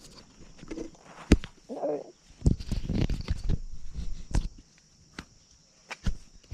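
Irregular knocks, clicks and rustling close to the microphone, like a body-worn camera being handled and adjusted, with a short quiet stretch near the end.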